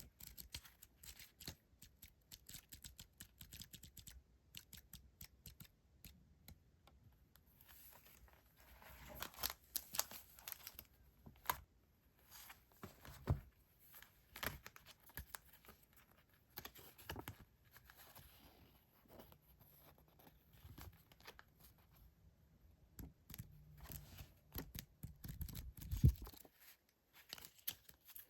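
Paper and plastic packaging rustling and crinkling as paper stickers and decoration items are handled, with many light ticks and taps on the desk. A louder thump comes near the end.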